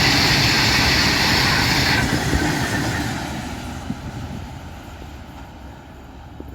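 Freight train passing at speed, with the rumble and wheel-on-rail noise of its wagons. About two seconds in the high hiss drops away, and the sound then fades steadily as the train draws off.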